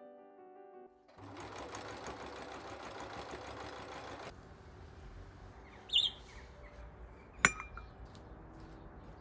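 Piano music stops, then a small machine runs with a rapid steady whirr for about three seconds and cuts off. Then comes a short high chirp and a single sharp clink with a brief ring.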